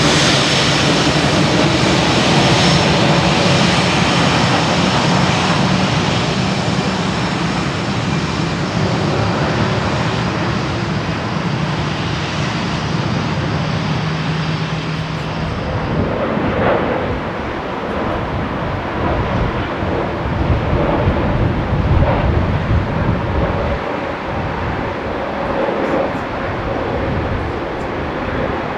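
Jet airliner engines running loud and steady, first a Lufthansa Airbus A319. About 16 seconds in the sound changes to a Boeing 737-800's engines, which have less high hiss and more low rumble.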